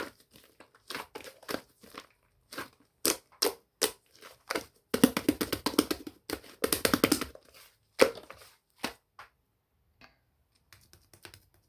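Slime being squeezed and pressed by hand, giving irregular crackling and popping clicks that come thickest through the middle and thin out near the end.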